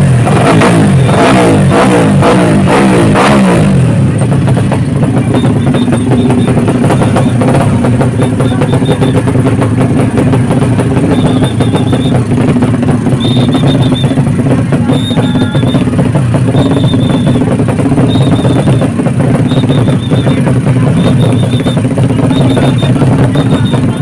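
Racing motorcycle engine revving hard, its pitch sliding up and down in the first few seconds, then holding a steady high drone.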